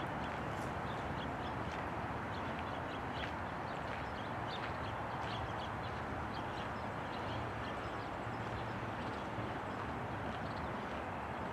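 Distant Siemens Desiro diesel multiple unit running across a bridge: a steady low rumble under a wash of outdoor noise, with small birds chirping throughout.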